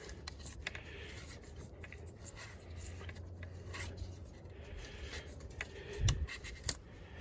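Light rubbing and scraping of a small engine part being cleaned by hand around the PCV valve, with a few faint clicks and a soft knock near the end.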